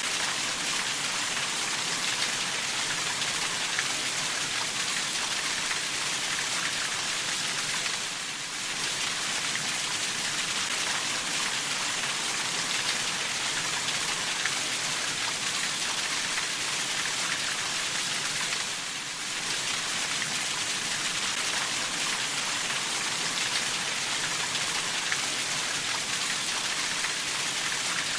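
Steady rainfall: a dense hiss of falling drops with a fine patter of individual drop strikes. It eases briefly twice, about 8 and 19 seconds in.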